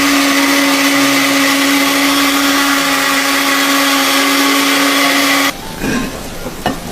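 Loud, steady whir of a small electric motor with a strong hum, starting abruptly and cutting off suddenly about five and a half seconds in; rain patter follows.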